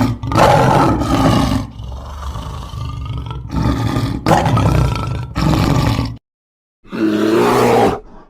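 A large animal roaring: a series of deep, loud calls one after another, with a short silent break before the last one.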